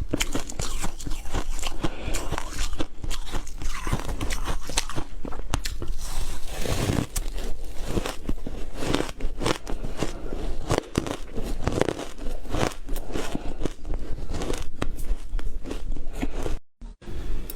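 Ice being bitten and chewed close to the microphone: a dense, irregular run of sharp crunching cracks, broken by a brief silence near the end.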